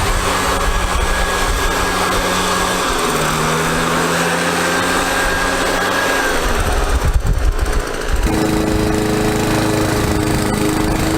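An engine runs steadily, dropping slightly in pitch about three seconds in. After a brief jumble of noise about eight seconds in, a lawn mower's small gasoline engine takes over, running steadily.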